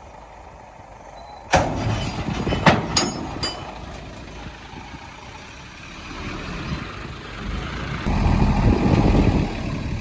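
Heavy earthmoving machinery working: a few sharp metallic clanks come about a second and a half in. The low engine noise then builds and grows loud from about eight seconds.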